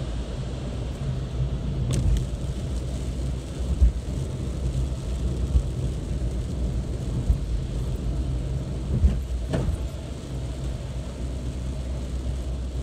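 A car running on a rain-soaked road: a steady low engine and road rumble with a constant hum under it, and a couple of brief knocks.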